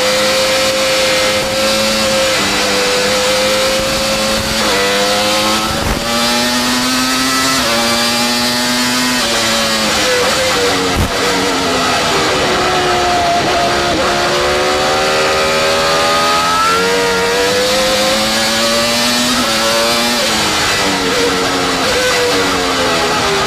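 Formula One car engine revving up through the gears and dropping back, its pitch climbing and falling over and over, with a couple of sharp clicks in between.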